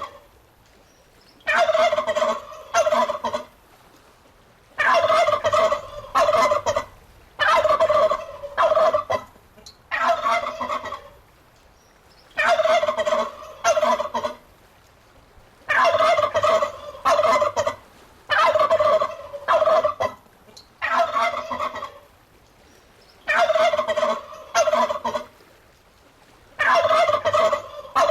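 Domestic turkey gobbling over and over: loud, fast warbling gobbles about one to two seconds long, coming every two to three seconds with short quiet gaps between.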